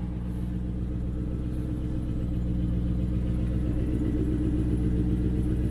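Maserati 3200 GT's twin-turbo V8 idling steadily, growing slowly louder, shortly after a cold start.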